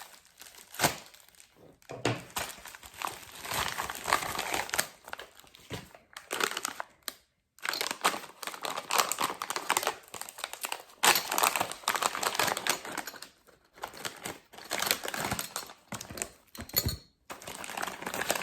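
Packaging crinkling and tearing in irregular bursts as a small parcel is opened and unwrapped, with a few sharp clicks.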